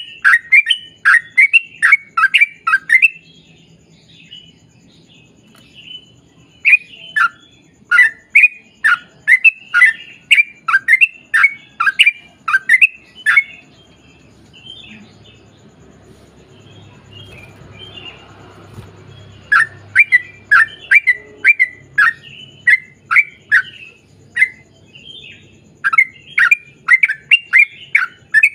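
Yellow-vented bulbul (trucukan) singing its long rapid-fire song: bouts of loud notes repeated about twice a second, each sliding downward. The song pauses twice for several seconds, in the first third and around the middle, leaving only a faint low hum.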